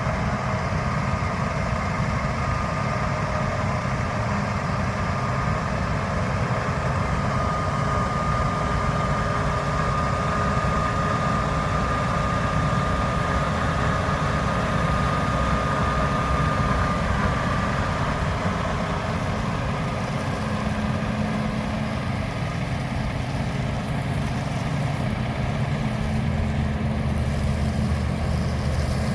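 Heavy diesel harvest machinery running steadily in the field, with a steady high whine through the middle. Near the end a deeper engine hum builds.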